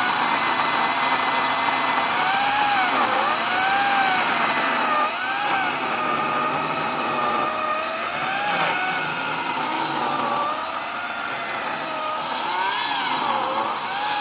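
Kobalt 40V Max battery-powered chainsaw cutting into a cedar trunk. Its motor whine dips in pitch and recovers several times as the chain bogs under load and frees up. This is the notch (wedge) cut of felling a tree.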